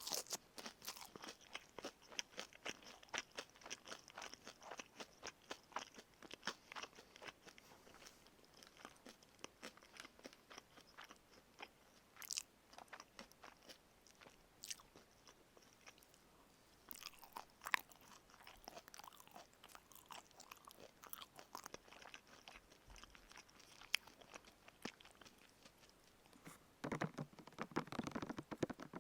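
Crispy fried chicken (karaage) being chewed close to the microphone: a run of crackly crunches that thins out through the middle, with a louder, crunchier bite near the end.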